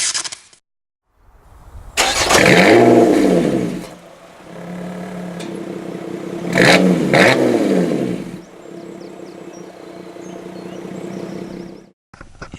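Lotus Evora 400's supercharged V6 starting with a loud bark as the revs flare and fall back, then idling; it is blipped once more about six and a half seconds in and settles to a quieter, steady idle.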